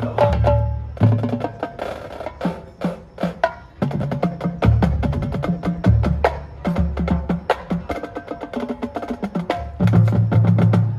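Marching band percussion section playing a rapid rhythmic passage: wood blocks and drums with short pitched mallet notes over repeated low bass drum hits.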